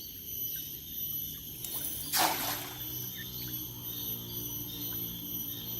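Steady high chorus of insects with a brief noisy rush about two seconds in, the loudest moment. Background music with low held notes comes in soon after.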